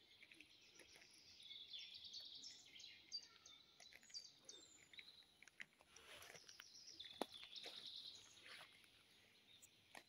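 Faint birdsong: small birds singing high chirps and trills over a quiet background, with one sharp click about seven seconds in.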